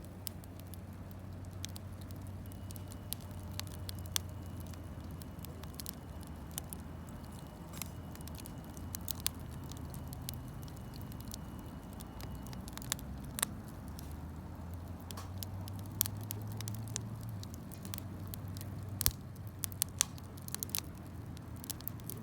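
Campfire crackling, with sharp irregular pops over a low steady hum.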